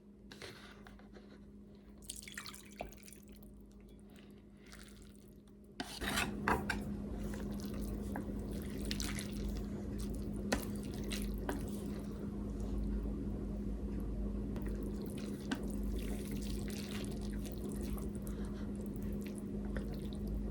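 Ramen being eaten close to the microphone: utensils clicking against the pot or bowl among wet, dripping sounds of noodles and broth. A steady low hum runs underneath and grows louder about six seconds in.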